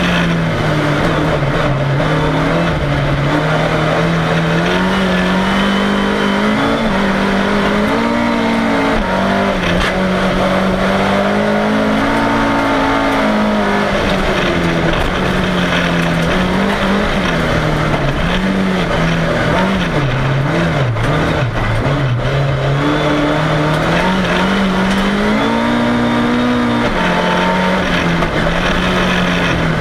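Volvo 340's four-cylinder engine heard from inside the car under race driving, its revs climbing and dropping again and again as the driver accelerates and lifts off.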